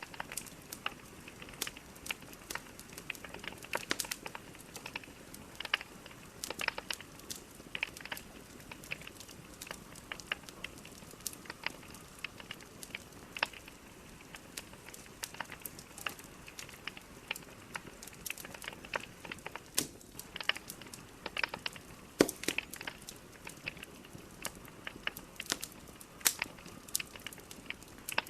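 Wood logs burning in a fireplace, crackling and popping at irregular intervals over a soft steady hiss. The loudest pop comes about twenty-two seconds in.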